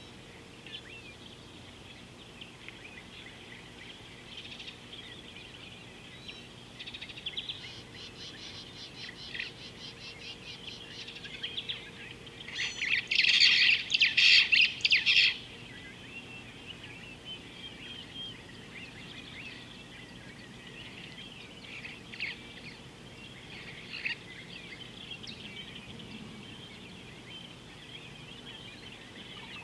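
Wild birds chirping and calling continuously. A fast, even trill of high notes comes about eight seconds in, and a loud burst of rapid chirping calls lasting about three seconds comes near the middle.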